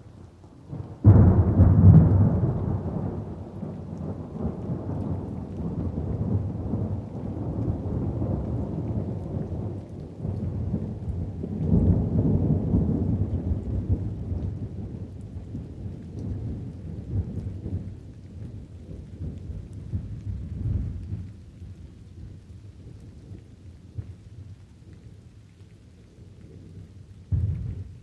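Rolling thunder over steady rain: a sudden clap about a second in that rumbles out over several seconds, another long swell of rumble near the middle, and a short low burst near the end.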